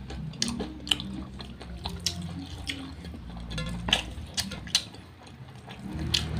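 Wet chewing and lip-smacking of people eating fried chicken and rice with their hands: a quick, irregular run of short, moist clicks over a faint steady low hum.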